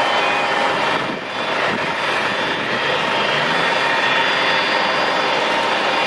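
Jet engines of a Boeing 747-400 freighter running loud and steady, a wide rushing noise with several high whining tones over it.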